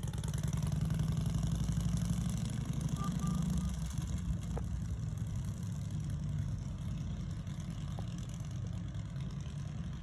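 Harley-Davidson motorcycle's V-twin engine running as the bike pulls away, its low rumble loudest for the first few seconds and then fading gradually.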